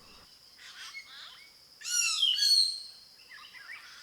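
Forest birds calling over a steady high insect drone: scattered chirps, then a louder call of several falling notes about two seconds in.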